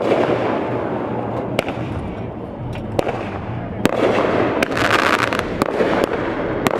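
Aerial fireworks bursting: sharp bangs every second or so, with a dense crackling from about four seconds in.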